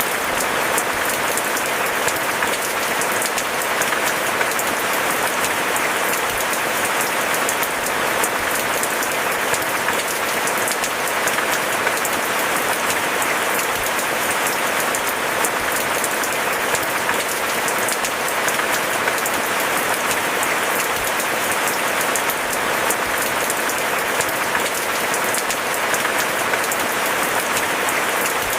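Steady, dense rainfall: an even hiss made of many closely spaced drop ticks, with no thunder.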